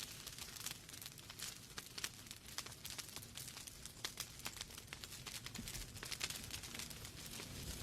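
Wood fire burning in a fireplace, with dense irregular crackles and pops from the logs over a soft steady hiss of the flames.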